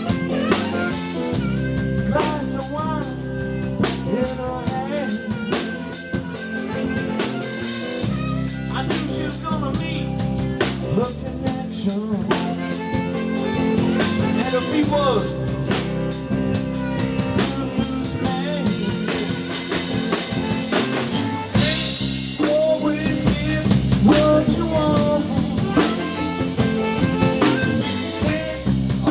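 Live blues band playing an instrumental passage: drum kit keeping a steady beat under bass and a lead guitar playing bending lines.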